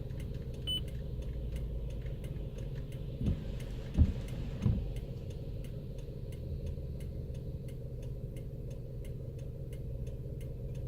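Car interior with steady engine and road rumble and an even ticking about three times a second. Three low thumps come a little past the middle.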